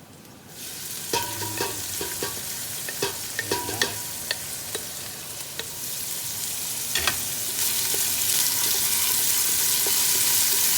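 Food sizzling in hot oil in a cooking pot, the sizzle starting suddenly as ingredients go in and growing louder near the end, with a spoon clicking and scraping against the pot as it is stirred.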